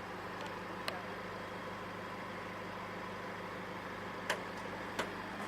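Chrysler Grand Voyager's 2.8 CRD four-cylinder turbo diesel idling with a steady hum, broken by three short sharp clicks about a second in and near the end.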